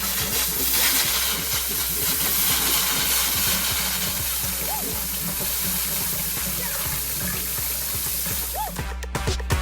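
Water rushing steadily while an electric water heater is flushed, stopping near the end, under background music.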